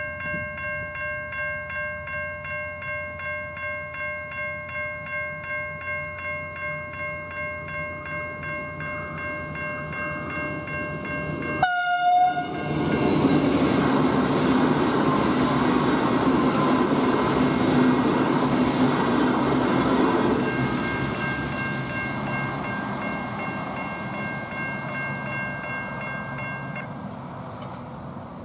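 Level crossing electronic bells (Safetran Type 3 e-bells) ringing in a steady rapid pulse, about two strokes a second. About twelve seconds in, a short horn blast sounds and a V/Line VLocity passenger train rushes past loudly, then its noise slowly fades. The bells stop near the end as the crossing clears.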